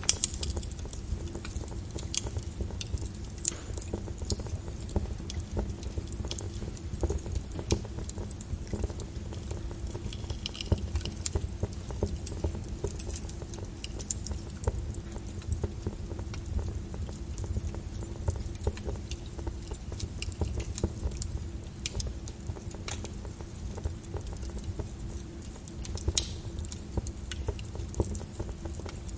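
Wood fire crackling in a fireplace: irregular sharp pops and snaps, some close together, over a steady low rumble.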